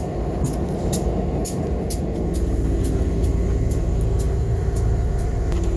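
Locomotive running: a steady low rumble with a constant hum, and light sharp clicks scattered through it.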